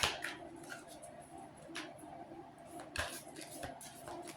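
Tarot cards being drawn and laid down: a few separate soft clicks and taps over a faint steady hum.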